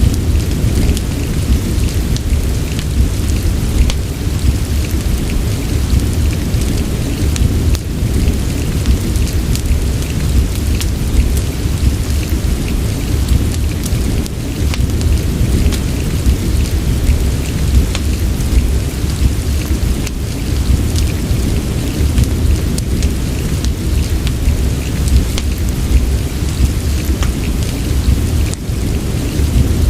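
Steady rain with a constant deep low rumble underneath, mixed with the small crackles and pops of a wood fire in a fireplace.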